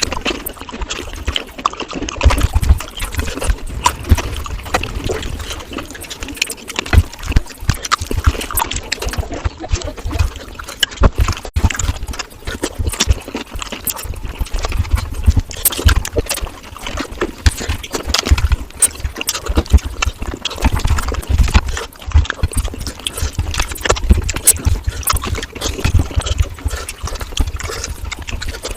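Close-miked chewing and wet mouth sounds of someone eating fish curry with rice in big mouthfuls: a steady run of smacks, squelches and clicks with low thuds of chewing.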